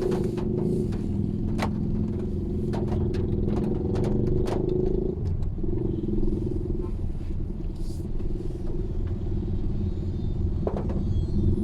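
Mitsubishi Xpander driving: steady low road and engine rumble, with scattered sharp clicks and taps, most of them in the first half.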